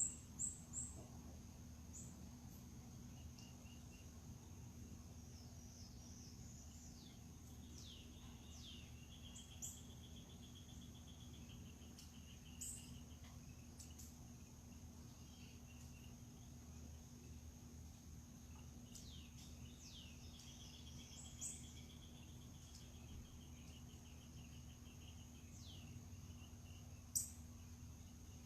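Faint outdoor dawn chorus: birds giving scattered short, sharp down-slurred chirps and, twice, a longer trill, over a steady high insect whine and a low hum.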